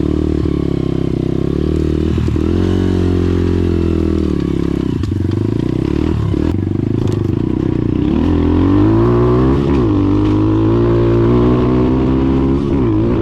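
Small 140cc dirt bike engine running, its pitch rising and dipping with the throttle.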